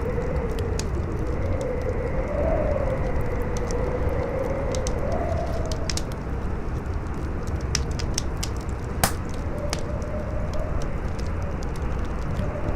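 Campfire crackling and popping over steady howling wind, the wind's moan rising and falling in pitch. One louder pop comes about nine seconds in.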